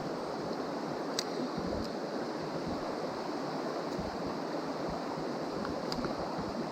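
Mountain stream rushing steadily over rocks, an even wash of water noise. Two faint clicks, about a second in and near the end.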